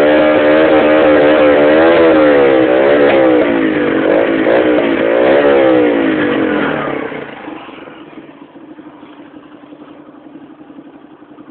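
Rieju RS2 motorcycle engine with a Turbokit aftermarket exhaust, revved in quick repeated throttle blips, the pitch rising and falling. About seven seconds in it drops back to a much quieter idle.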